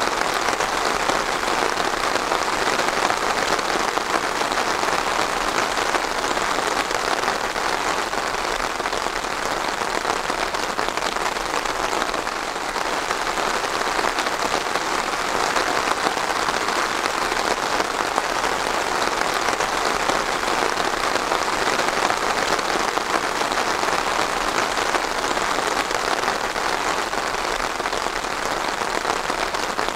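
Steady heavy rain falling and pattering on a surface, a dense even hiss of drops.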